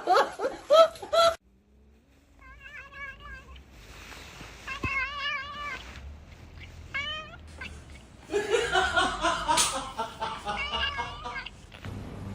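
A cat yowling in several drawn-out calls with a wavering pitch, then a short rising meow. A louder, denser stretch of yowling follows about eight seconds in.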